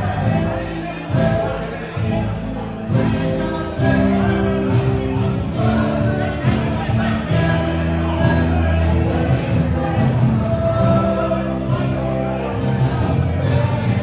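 A live band playing a song with singing over bass and drums, a steady beat of cymbal and drum hits running through it.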